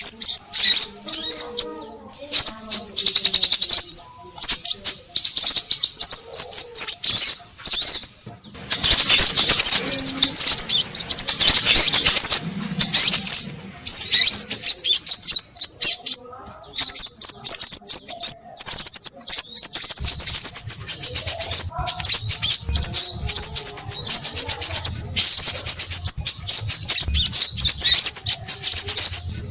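Busy, nonstop high-pitched chirping and twittering of crimson sunbirds (sepah raja), played as a bird-trapping lure call. Rapid trills come one after another with only brief gaps, and a faint low hum joins about two-thirds of the way through.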